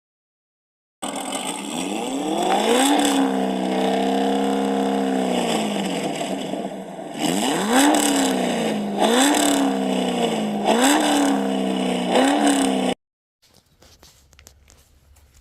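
Car engine revving: it rises and holds high for a few seconds, drops back, then gets four quick blips of the throttle before cutting off suddenly.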